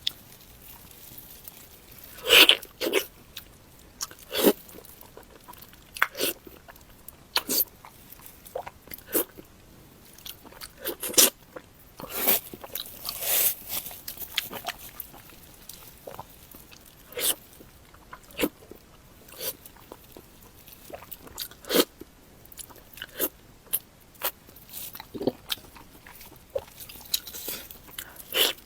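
Close-miked eating: irregular bites and chewing mouth sounds, some a second or more apart and some in quick clusters.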